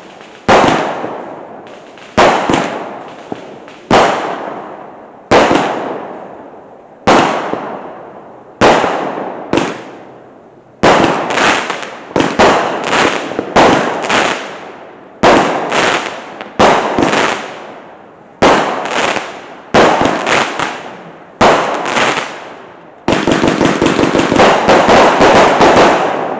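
Fireworks going off: a series of sharp bangs about one to one and a half seconds apart, each dying away over about a second. Near the end they turn into a fast, dense run of bangs.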